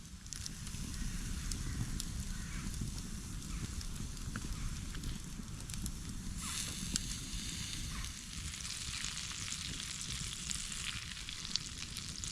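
Food sizzling in a frying pan over a campfire, a steady hiss with small crackles and pops.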